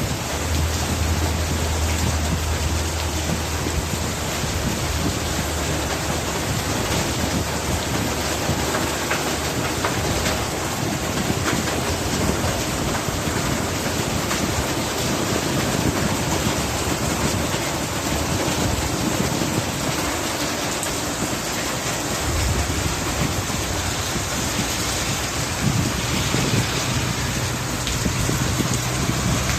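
Heavy rain pouring down steadily in a summer thunderstorm, a dense even hiss, with a low steady hum underneath at the start and again from about two-thirds of the way through.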